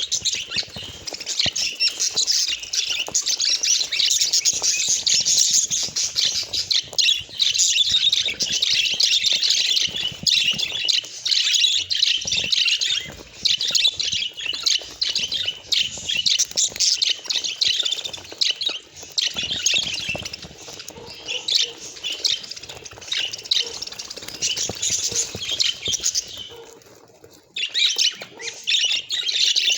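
Budgerigars chattering: a dense, unbroken run of short, quick chirps that stops briefly about 27 seconds in, then starts again.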